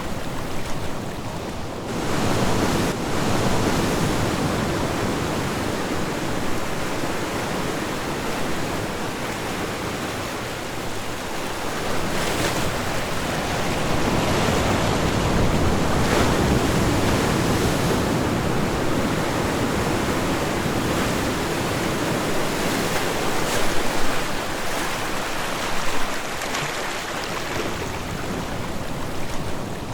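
Ocean waves breaking and washing on a shore, a steady rush of surf that swells and eases every few seconds, with a couple of louder breaks near the end.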